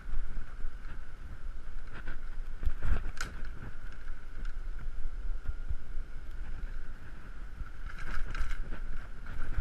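Wind buffeting a GoPro's microphone during a bicycle ride, a steady rumble with a few short rattles and clicks.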